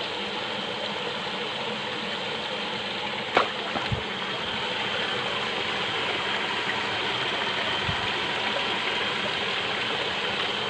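Steady running water of a small stream, with a faint steady high tone over it and one sharp knock about three and a half seconds in.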